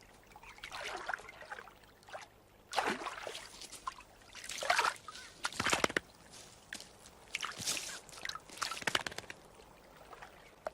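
Water sloshing and splashing in short, irregular bursts, about six of them, with quiet between.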